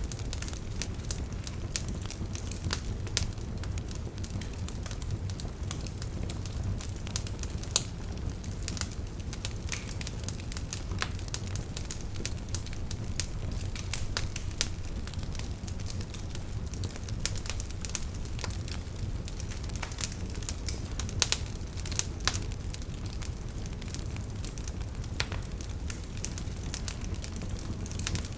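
Campfire burning with the firewood crackling: irregular sharp pops and snaps, several a second, over a steady low rumble, with the loudest snaps about eight seconds in and again about twenty-one seconds in.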